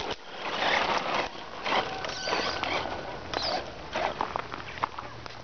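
HSP 1/10 radio-controlled monster truck driving over rough ground: its tyres crunch and scrabble on dirt and gravel, with short bursts of whining from the drivetrain.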